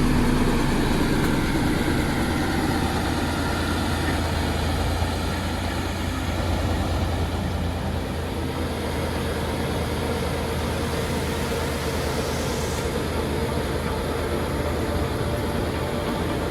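Turbocharged YaMZ-236 V6 diesel engine of a T-150 tractor running steadily with a low rumble.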